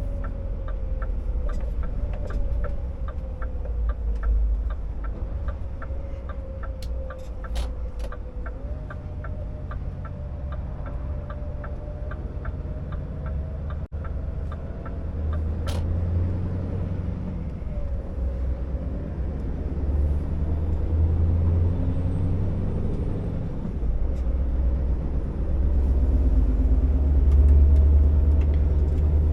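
Scania R650 timber truck's V8 diesel running under load, a deep steady rumble with a wavering whine above it, growing louder in the last few seconds. A regular ticking, typical of a turn signal, runs for about the first third.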